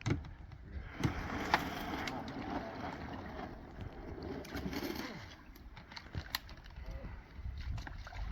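Canoe paddling: a paddle swishes through the water for a few seconds with a couple of sharp knocks, and wind rumbles on the microphone.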